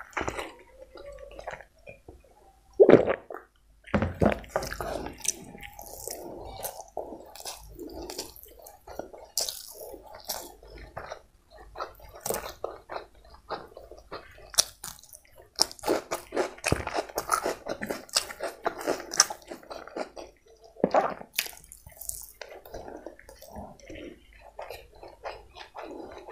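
Close-up mouth sounds of a person eating chicken biryani with her hand: chewing and lip smacks as many short clicks, with one louder burst about three seconds in.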